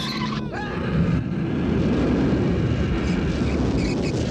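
Film soundtrack of a speeding car: engine running hard at speed, heard as a dense, steady noise. It is preceded by a held high tone in the first half-second that bends down as it ends.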